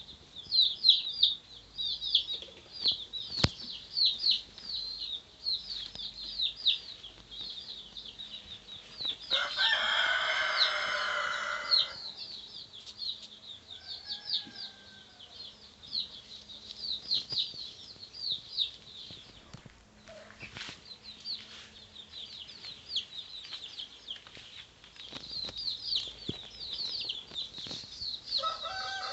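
Poultry yard sounds: rapid, high-pitched chirping runs throughout, and a rooster crows once about ten seconds in, one long call.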